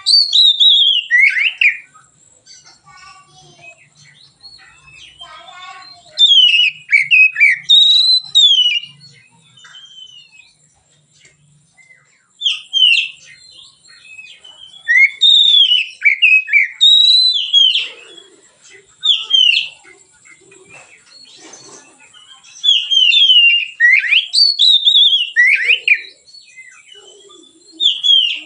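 Oriental magpie-robin (kacer) singing in bouts of loud, clear whistled phrases made of quick sliding notes. Each bout lasts a few seconds, with quieter chattering calls in the pauses between bouts.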